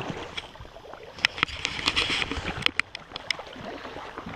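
Creek water splashing and sloshing, with scattered sharp clicks and knocks, as a hooked smallmouth bass is brought in. The splashing is strongest around the middle.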